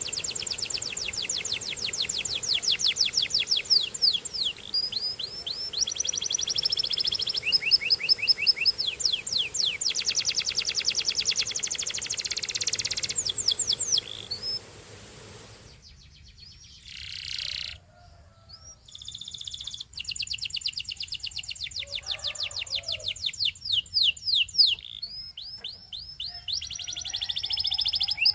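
Domestic canary singing a long song of fast trills and rolls, each a rapid run of repeated notes, switching from one trill to the next. The song breaks off for about four seconds just past the middle, with a few stray calls, then resumes.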